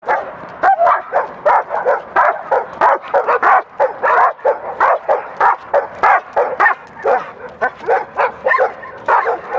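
A dog barking loudly and continuously in rapid volleys, about three barks a second.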